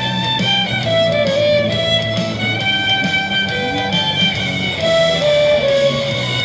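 Violin playing a melody of held, sliding notes over a plucked guitar accompaniment.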